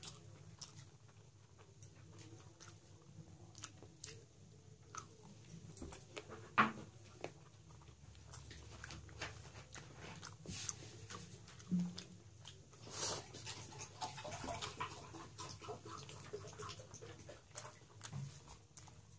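Close-miked eating sounds of a person chewing rice and mutton curry: wet chewing and lip smacks heard as scattered sharp clicks, the loudest about six and a half seconds in and a denser run of louder ones around the middle.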